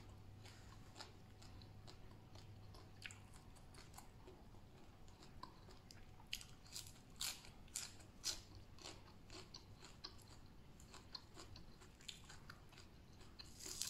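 A person chewing crunchy food, fresh raw vegetables: irregular crisp crunches that come thickest in the middle and again near the end.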